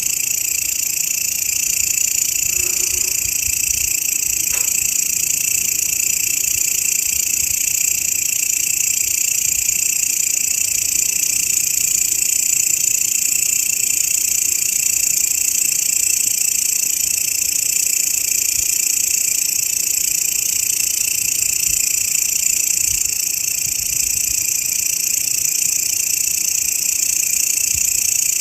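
Grasshopper (belalang) stridulating in a continuous, high-pitched buzzing trill that holds steady without pause.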